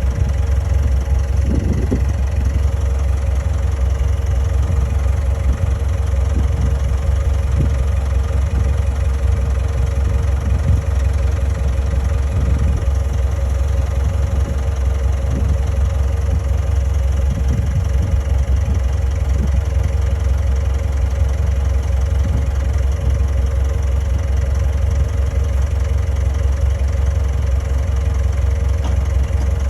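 Bulldozer diesel engine running steadily at constant speed, with a steady hum and no change in pace.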